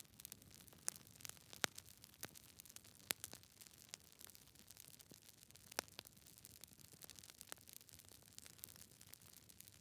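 Wood fire with logs crackling: quiet, irregular sharp pops and snaps over a faint hiss, a few louder pops standing out.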